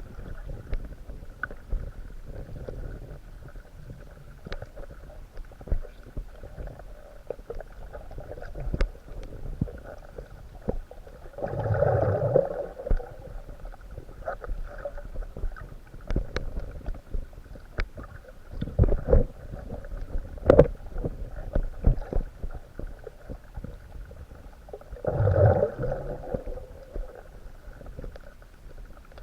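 Underwater sound of a coral reef: a steady low hum with scattered sharp clicks and crackles. Twice, about twelve seconds apart, comes a louder low rushing burst lasting a second or so.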